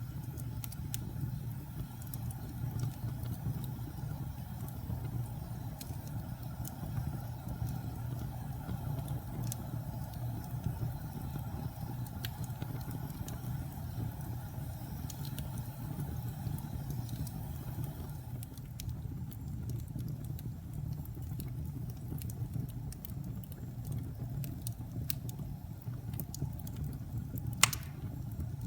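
Wood fire burning with a steady low roar and scattered crackles and pops, one louder pop near the end.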